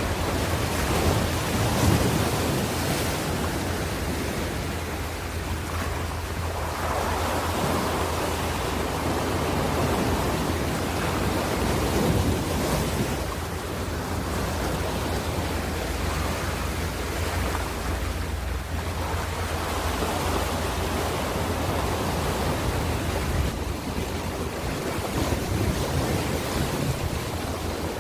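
Ocean waves washing on a shore, a continuous surf that swells and eases every few seconds, with a steady low rumble beneath.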